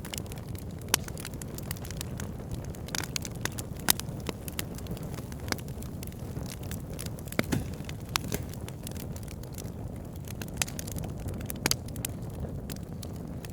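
Wood fire burning: a steady low rumble of flames with frequent sharp crackles and pops from the burning logs, a few of them noticeably louder.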